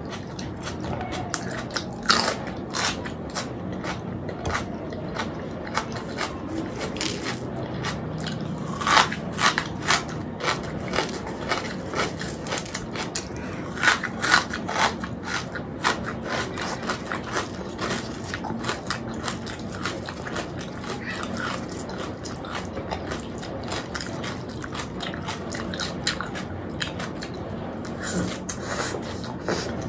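Close-miked eating of puri with chickpea curry: wet chewing and biting mouth sounds, with sharp louder clicks in clusters every few seconds.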